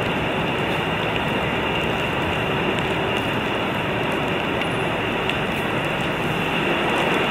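Steady hiss and rumble of rain and wind on the camera microphone, even throughout.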